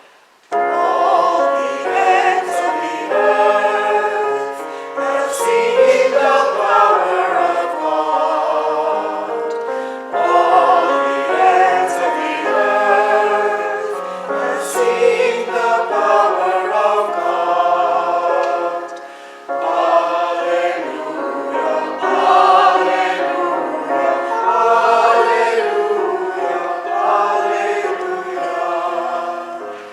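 Church choir singing in parts, starting about half a second in, with short breaks between phrases about 10 and 20 seconds in.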